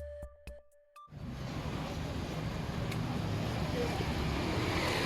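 Electronic music with a beat, cutting off about a second in, then a steady wash of street noise with a low traffic rumble.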